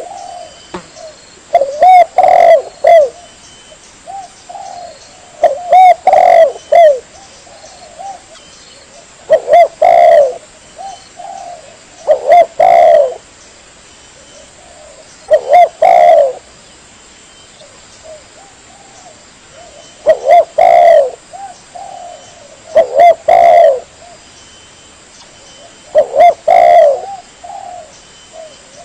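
Spotted dove (tekukur) cooing: a short phrase of two or three low coos about every three seconds, with softer coos in between. This is the call used as a lure to draw in tekukur.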